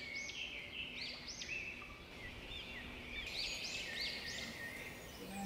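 Birds calling, a quick series of short rising-and-falling chirps repeating over and over, over faint outdoor background hiss.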